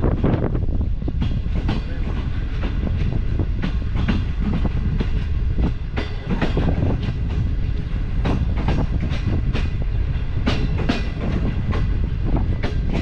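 Passenger train coaches running along the track: a steady low rumble of wheels on rail, with frequent clicks and knocks as the wheels pass over rail joints.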